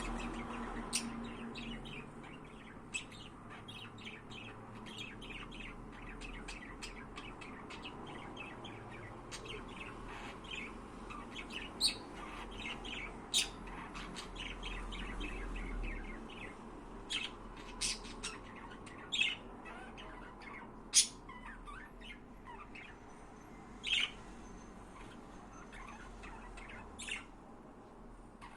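Budgerigars chirping in a steady stream of quick, short calls, with a few louder, sharp calls standing out now and then.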